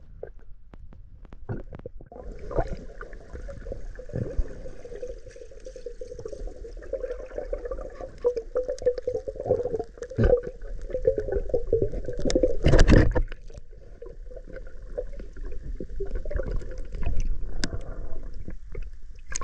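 Water sloshing and gurgling around swimmers moving through a flooded cave passage, with a loud splash about thirteen seconds in.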